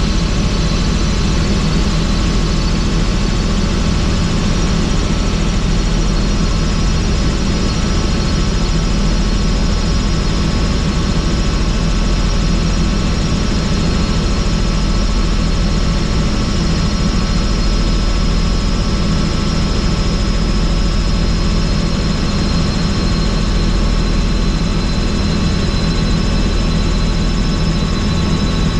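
Helicopter in flight heard from on board with the doors off: steady rotor and engine noise with a constant high whine, under rushing wind.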